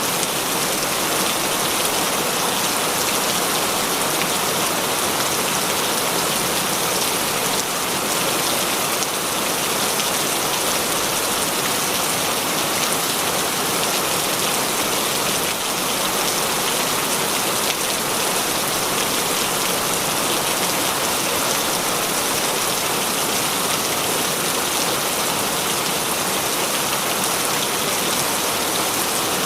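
Heavy rain falling steadily, an even hiss of dense raindrops with no breaks or changes.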